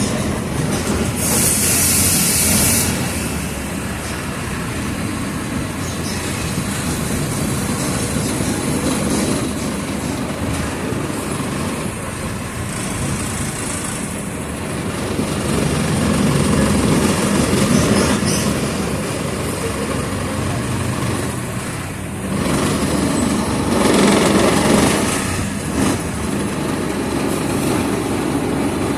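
Mercedes-Benz OF 1722M city bus running underway, heard from inside: engine noise mixed with rattling of the body and road noise, rising and falling with the drive. A short sharp hiss comes about two seconds in.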